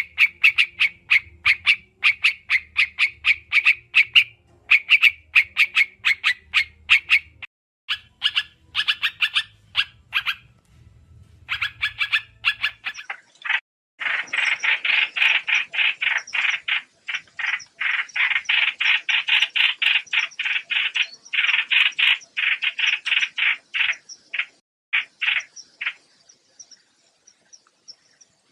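Trao trảo songbird calling in long, fast strings of short, sharp notes, several a second. The calls break off briefly about halfway, then resume denser with thinner high notes above, and there is a faint low hum under the first half.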